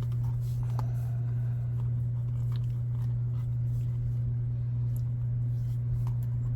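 A steady low hum throughout, with a few faint light clicks and taps of small parts being handled.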